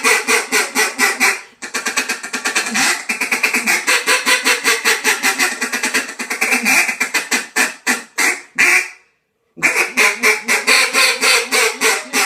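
Poly Duck Nasty duck call blown in fast runs of short, sharp quacks, several a second. One long run is followed by a brief pause and a final run.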